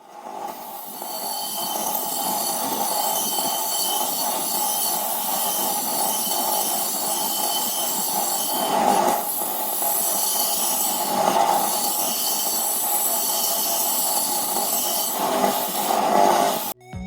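A power tool working metal: a steady high screech with several held tones, swelling twice in the middle.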